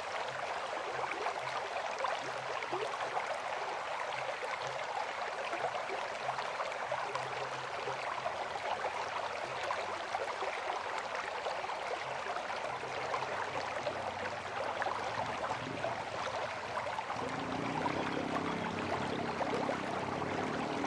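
River water flowing and splashing steadily over rocks, a dense rushing with a crackly texture. Near the end a low hum with several steady pitches joins in under the water.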